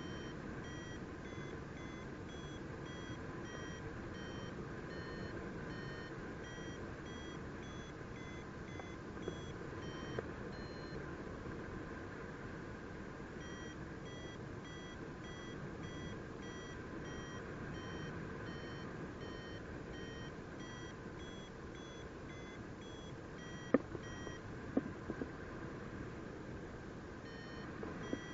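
Paragliding variometer beeping in short high tones, about two a second, with a pitch that wavers up and down: the glider is climbing in lift. The beeps stop for a couple of seconds and then resume, over a steady hiss of wind, and a few sharp clicks sound near the end.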